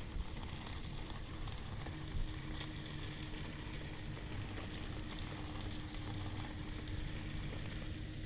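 Steady low background rumble, with a faint steady hum joining about two seconds in and two brief soft knocks, one just after the start and one about two seconds in.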